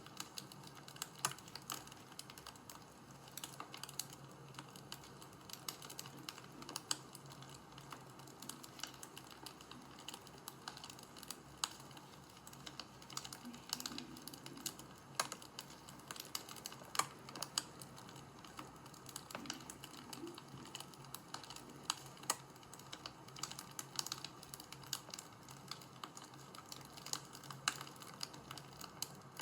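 Wood fire crackling: a steady low hiss with irregular sharp pops and snaps.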